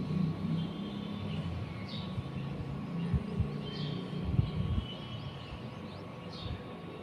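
Birds giving short, scattered chirps over a steady low outdoor rumble broken by occasional soft thumps.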